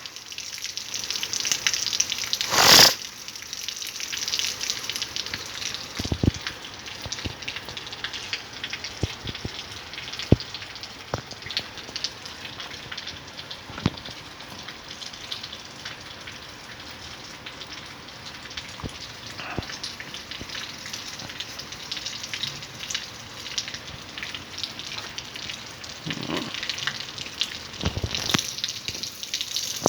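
Steady rain falling and splashing on wet ground, with scattered drops ticking sharply on nearby surfaces. It briefly gets louder in a rush about three seconds in and again near the end.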